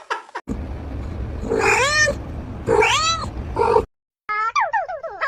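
Domestic cat meowing twice, each meow a long call that rises and then falls in pitch, over a low rumbling noise. Near the end, after a brief break, comes a quick run of falling tones.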